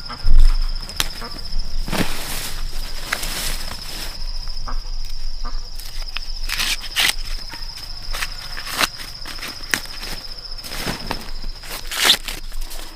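Steady high-pitched insect drone, with irregular rustles and crunches over it. A single low thump comes just after the start.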